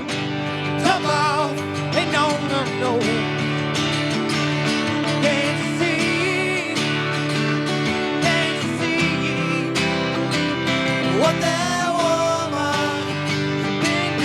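Country band playing live: a passage without recognised lyrics, guitar to the fore, with wavering, bending melody notes over a steady accompaniment.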